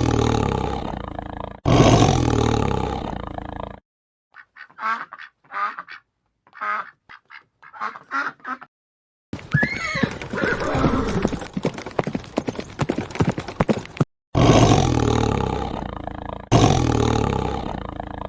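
A run of separate animal-call recordings cut one after another. It opens with two long, loud calls, then comes a string of short repeated calls, then a dense noisy stretch with one high gliding call, and it ends with two more long, loud calls.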